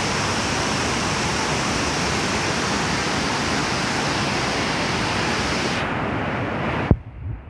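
Waterfall pouring close by: a loud, steady rush of falling water. Near the end it cuts off abruptly with a click, leaving a few quieter low bumps.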